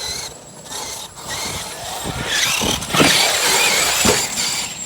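Large-scale electric RC trucks racing, their brushless motors whining up and down in pitch over tyre noise, louder in the second half, with a few short knocks.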